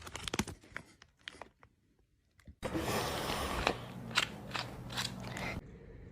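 A pet crunching and chewing a piece of food in quick, sharp clicks. The sound drops out completely for about a second, then comes back as a steady hiss with more scattered clicks.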